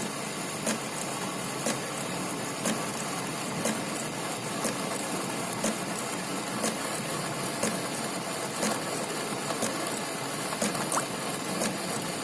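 Centre lathe running, a steady mechanical noise with a sharp tick repeating about once a second.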